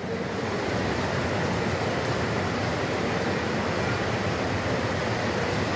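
Steady rushing noise, even and unbroken, with no voice in it.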